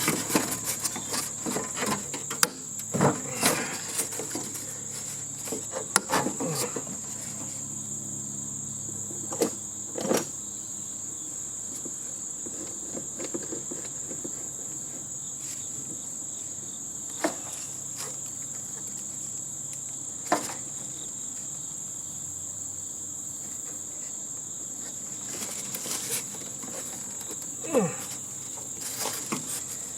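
Scattered sharp knocks and clanks of metal parts being handled while a scrapped heating and air-conditioning unit is taken apart, several close together at first, then single ones every few seconds. Behind them a steady high-pitched insect chirring.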